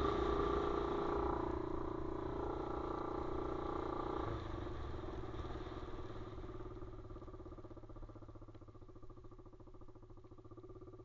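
Pit bike's engine running under throttle, then dropping to a lower, quieter pace about four seconds in as the throttle is eased off, and fading further toward the end.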